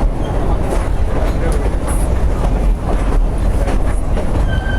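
Durango & Silverton narrow-gauge steam train running on the rails: a loud, steady low rumble with the clatter and knocks of wheels over the track.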